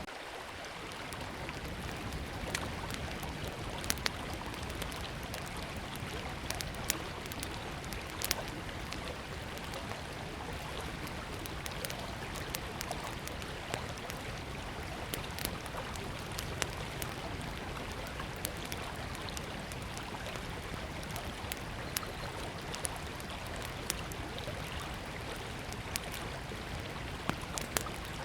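Steady rushing of a flowing river, with irregular sharp crackles and pops from a small wood campfire burning close by.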